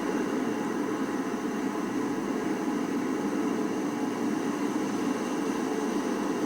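A steady mechanical drone, like a running engine, holding constant throughout.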